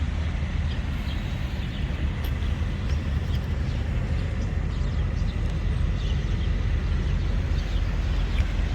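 Steady low rumble of a running vehicle, with faint short high ticks scattered through it.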